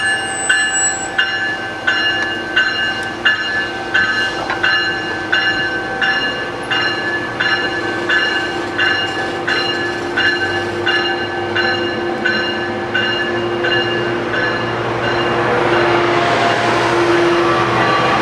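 A railroad bell clangs about one and a half times a second and fades away after about fourteen seconds, over the steady sound of a train. Near the end a louder train rumble builds up.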